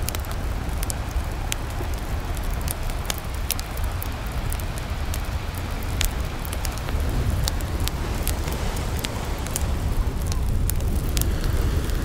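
Beach campfire crackling, with irregular sharp pops and snaps of burning wood. These sit over a steady low rush of ocean surf.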